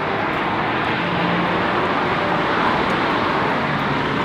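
Steady noise of passing road traffic, a continuous even rumble and hiss.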